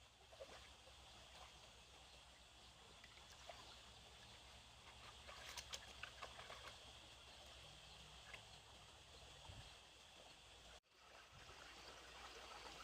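Faint trickling water with scattered small clicks and splashes. The sound drops out for an instant about eleven seconds in.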